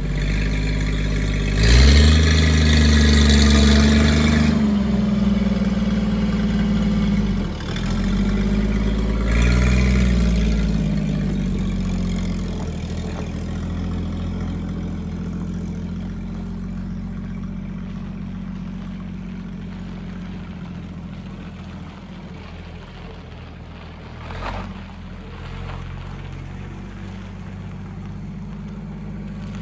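The engine of a chopped 1937 Chevrolet Master Deluxe rat rod revs up twice in the first ten seconds or so, then settles to a steady idle. There is one short louder blip late on.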